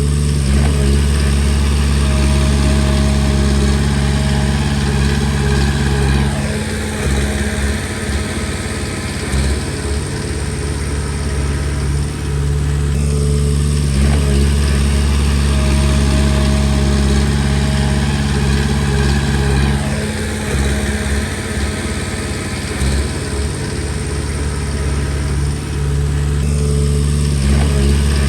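Komatsu D20P bulldozer's diesel engine running steadily while it pushes stone. Twice, about six seconds in and again about twenty seconds in, the engine note turns rougher and slightly quieter for several seconds as the load changes, then settles back to a steady tone.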